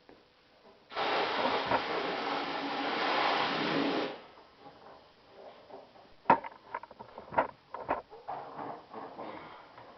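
A loud, steady hiss that starts abruptly about a second in and cuts off sharply about three seconds later, followed by a run of sharp knocks and taps.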